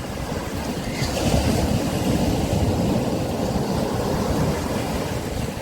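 Sea waves breaking and washing up a beach; the surf swells about a second in and eases off near the end.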